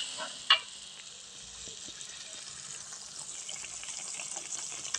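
Ground spice paste frying in oil in a wok: a steady sizzling hiss. A metal spoon clacks once against the wok about half a second in.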